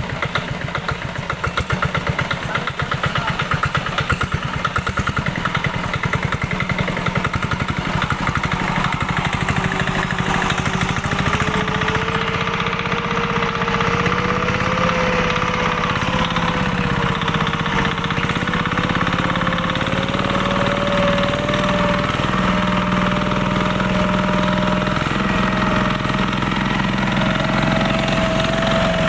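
Kubota engine running steadily with even firing pulses, a whine coming in about a third of the way through and slowly rising in pitch as the speed creeps up.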